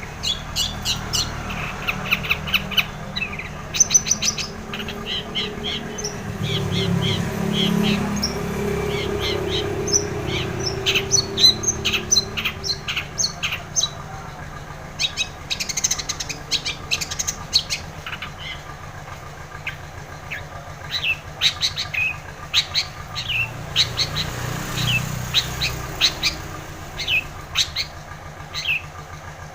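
Long-tailed shrike singing: quick runs of short, sharp, chattering notes in bursts with brief pauses, over a low background rumble that swells twice.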